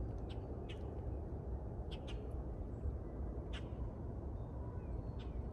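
Short, sharp bird chirps at irregular intervals over a steady low rumble.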